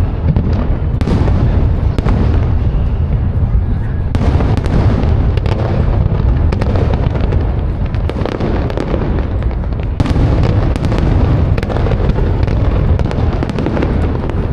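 Fireworks display: aerial shells bursting one after another in a dense barrage, over a steady low rumble.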